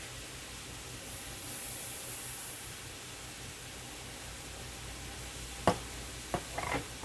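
Broccoli and mushrooms in chicken broth cooking in a frying pan, giving a steady low sizzle. A brighter hiss swells for about a second and a half, starting about a second in. Near the end come a sharp click and two softer knocks.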